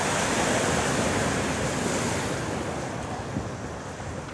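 Storm surf: a big wave breaking and washing up the pebble shore, swelling in the first second or two and then slowly easing off, with wind buffeting the microphone.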